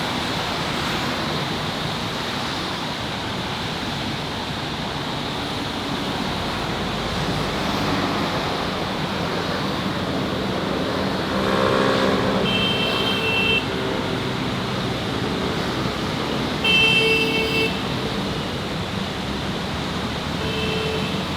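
Steady city traffic noise from passing cars and scooters, with brief pitched beeps about twelve and seventeen seconds in and a shorter one near the end.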